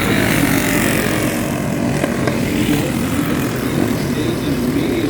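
Several youth racing motorcycle engines running hard on a dirt track, their pitches wavering up and down as they rev.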